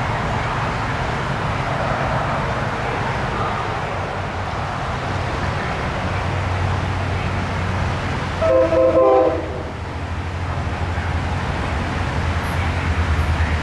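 A train running with a steady rumble and low engine drone, its locomotive horn sounding one short chord-like blast of about a second, a little past the middle. The low drone grows louder near the end.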